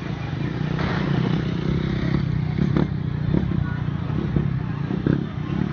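Motocross dirt bike engines running, with a few brief sharp knocks.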